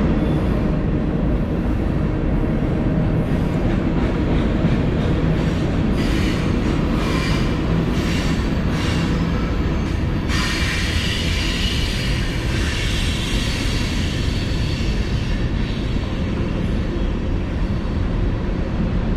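Steady loud rumble of a heavy vehicle in motion, with higher-pitched squealing or hiss mixed in from about halfway through.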